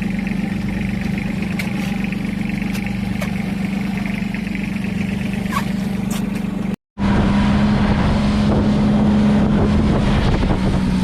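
Small fishing boat's engine running steadily at a constant pitch. The sound drops out for a split second about two-thirds through, then comes back a little louder with more rushing noise.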